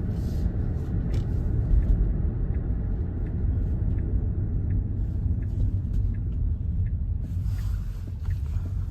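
Steady low rumble of tyre and road noise heard inside the cabin of a moving electric car (a Tesla), with no engine note.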